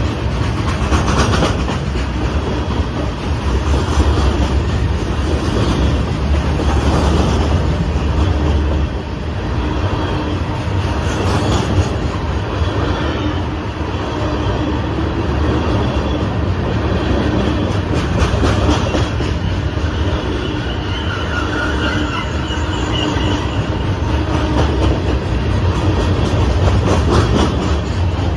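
Loaded ballast hopper cars of a heavy freight train rolling past close by: a steady, loud rumble of steel wheels on rail, with the wheels clattering over the rail joints.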